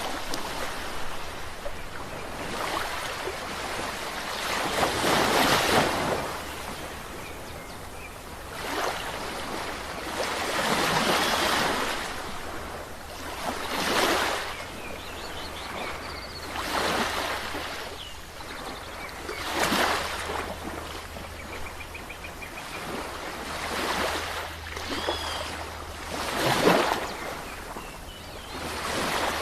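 Sea waves breaking on a shore, each wash swelling and fading in turn about every three seconds, over a steady low rumble of surf.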